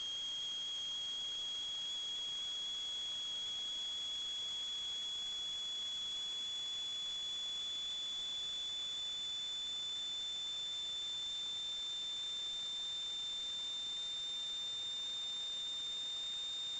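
A steady, high-pitched electronic whine over constant hiss, creeping very slowly upward in pitch, typical of interference from sewer-camera recording equipment.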